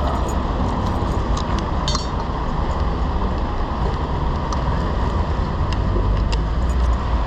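Steady rumble of street traffic and wind noise, with scattered light metallic clicks and clinks.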